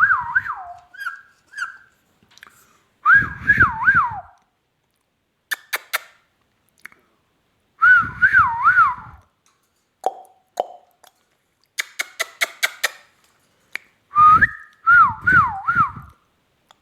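Indian ringneck parakeet whistling in short bursts of two or three quick warbling notes that rise and fall in pitch, repeated four times. Two runs of sharp rapid clicks fall between the bursts.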